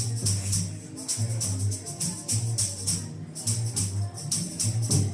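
Bass playing the groove of a song intro in a rhythmic run of low notes, with a high shaker-like rattle keeping steady time over it.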